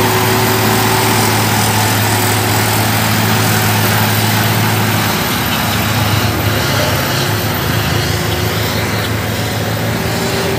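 Heavy truck's diesel engine running under load, a loud steady drone with a deep hum whose note changes about halfway through.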